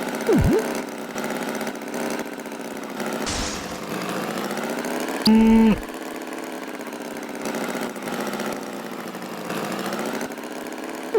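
Cartoon tractor engine sound effect, running steadily with a slightly wavering pitch. A quick pitch swoop comes near the start, and a short, loud, steady honk-like tone sounds about five seconds in.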